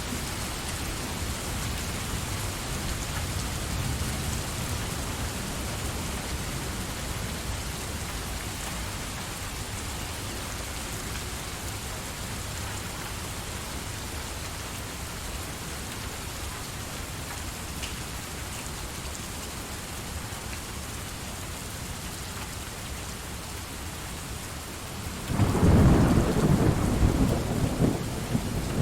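Steady rain falling, then a loud low rumble of thunder that starts suddenly near the end and drowns out the rain.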